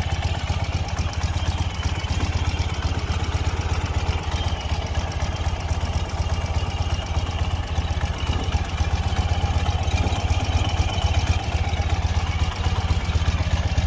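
2010 Ural 750 motorcycle's air-cooled flat-twin engine idling steadily.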